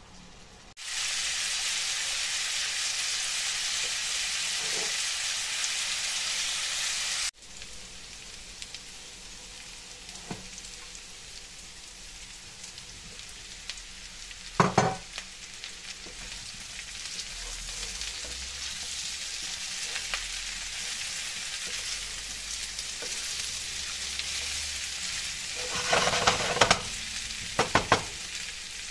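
Diced potatoes and meat cubes sizzling as they fry in a pan. The sizzle is loud for the first few seconds, drops suddenly after about seven seconds, then slowly builds again. There is a single knock about halfway, and a wooden spatula stirs with a few clatters near the end.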